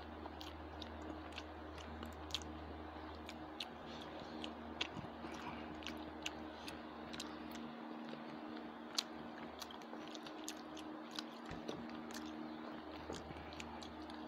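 Close-miked chewing of rice and fried fish eaten by hand, with many small irregular wet mouth clicks and smacks and fingers working food on the plate. A steady low hum sits underneath.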